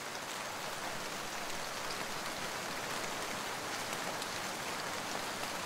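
Steady rain falling on a lake's surface: an even hiss dotted with the fine ticks of single drops.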